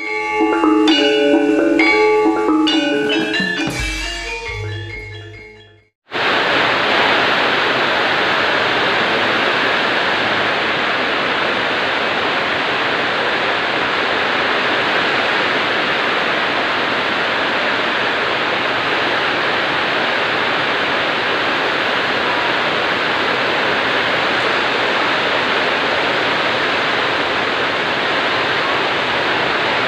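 A short musical jingle of bright, pitched notes fades out over the first six seconds. Then heavy rain falls as a steady, even rush that does not change for the rest of the time.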